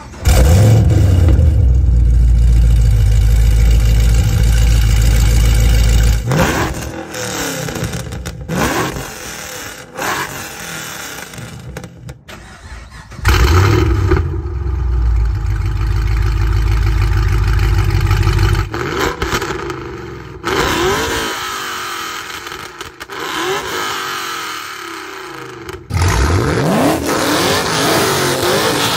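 A 2013 Camaro ZL1's supercharged 6.2-litre LSA V8 runs loud and steady for about six seconds, then is revved in three quick blips. About halfway through, a 2010 Camaro SS's 6.2-litre LS3 V8 does the same: a loud steady run, then three revs. Near the end both V8s are revved together.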